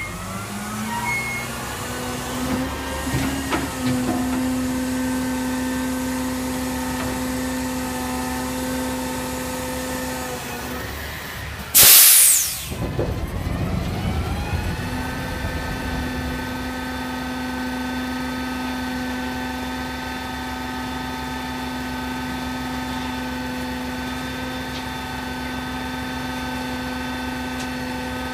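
Recycling garbage truck's engine revving up and holding a steady high speed, easing off about 10 s in. About 12 s in there is a loud hiss of air-brake release. The engine then revs up again and holds steady until it drops off near the end.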